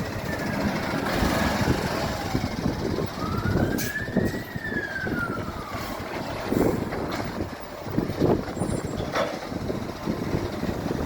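Garbage truck running, with a whine that rises and then falls over about three seconds, and a few sharp knocks. Heavy wind noise on the microphone.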